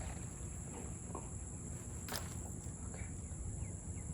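Steady high-pitched insect chorus, crickets or similar, with a few faint clicks and one sharper click about two seconds in.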